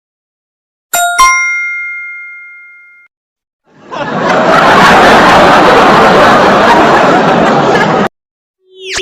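Two quick bell-like dings about a second in, their clear tones ringing out and fading over about two seconds. Then a loud, dense noise lasts about four seconds and cuts off suddenly.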